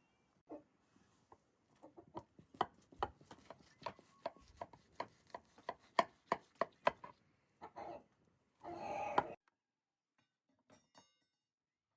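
Knife chopping food on a cutting board: a steady run of sharp knocks, about three a second, then a brief noisy rush near the end before it goes quiet.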